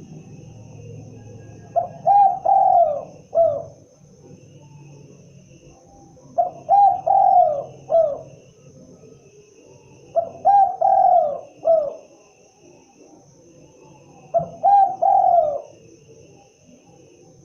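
Spotted dove (tekukur) cooing: four phrases about four seconds apart, each a run of three or four falling coos.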